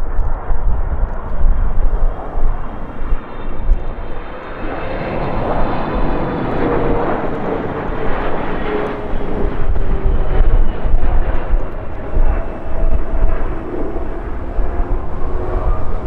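A jet airliner passing close by: its engine noise swells to a peak about halfway through, and the engine whine tones fall slowly in pitch as it goes past. Underneath, gusty wind rumbles on the microphone.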